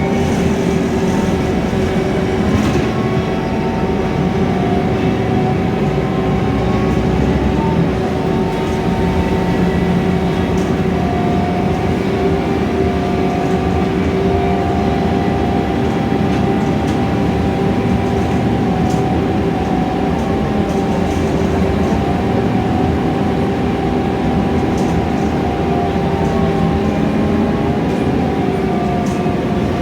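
A Scania K320iA CNG city bus on the move, heard from inside the cabin: steady engine and drivetrain running noise with a steady whine. The pitch shifts slightly now and then, and a few light rattles come through.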